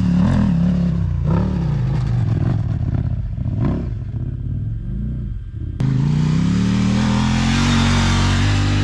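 Adventure motorcycle engine working hard off-road up a steep hill climb, revving and easing off with the throttle. Partway through the sound drops back to short blips. A little before the end the engine comes back in suddenly and climbs steadily in pitch as it pulls.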